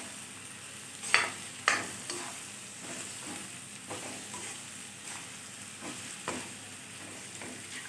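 Pointed gourd pieces frying in tomato-spice masala in a wok, a steady sizzle, with a metal spatula scraping and knocking against the pan as they are stirred. The two sharpest scrapes come about a second in, with fainter knocks after.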